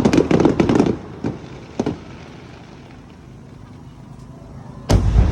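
Aerial fireworks: a rapid crackle of popping stars for about the first second, two more single pops, then a fading rumble. Near the end a loud, deep boom of another shell bursting.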